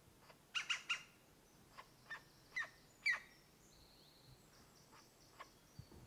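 Sharp bird calls: a quick run of three calls about half a second in, then four single calls over the next two and a half seconds, the last the loudest. A faint, thin, high note follows around four seconds in.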